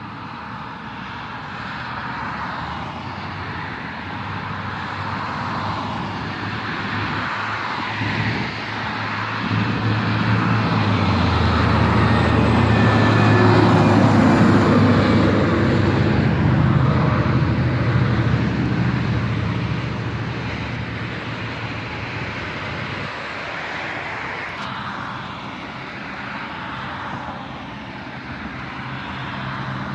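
Road traffic with a heavy truck passing: the engine's low drone and tyre noise build to a peak about halfway through, then fade away.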